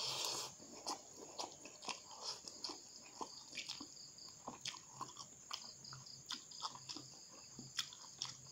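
Close-up mouth sounds of eating noodles: a short slurp as a forkful is drawn in at the start, then wet chewing with many irregular smacking clicks.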